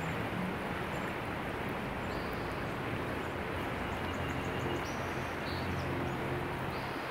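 Steady outdoor rushing noise with a low hum underneath that swells and fades, and a few faint, short, high bird chirps.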